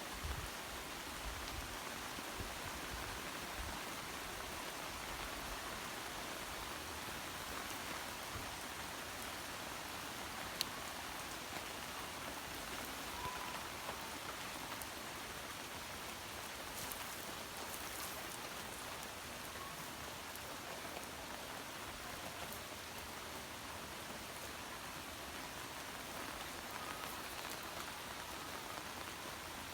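Steady rain falling and pattering on surfaces, with a few brief drop clicks.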